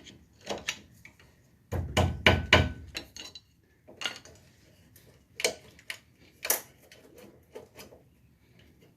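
Metal tools clanking and knocking against metal: a quick run of four or five sharp strikes about two seconds in, then scattered single knocks.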